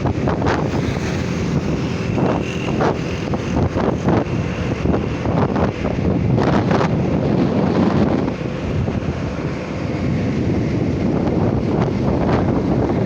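Wind buffeting the microphone on a moving motorcycle, over the steady run of the engine and road noise, with scattered short gusts.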